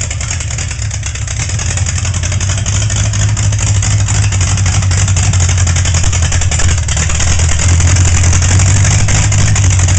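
Higher-compression straight-six engine with triple carburettors in a sling-bucket hot rod, running steadily. It gets a little louder over the first few seconds, then holds.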